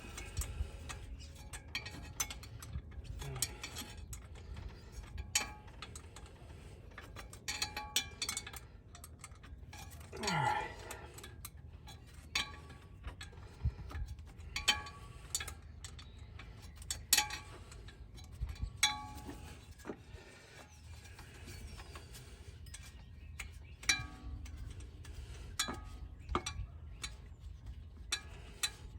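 Scattered clicks and metallic clinks of hand tools, a wrench and ratchet working bolts on an engine.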